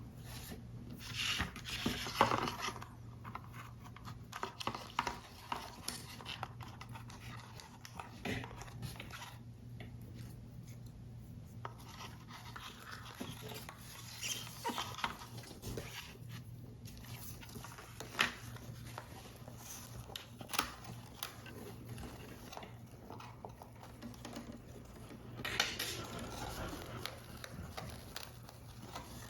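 Paper model pieces being handled and worked: card stock rustling in a few short stretches, with scattered small clicks and taps, over a faint steady low hum.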